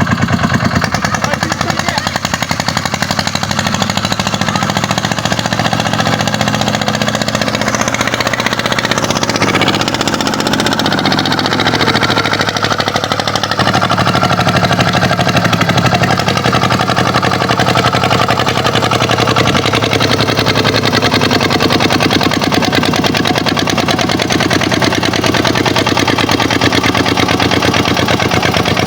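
Kubota tractor's diesel engine running steadily, with the engine note changing about a third of the way in.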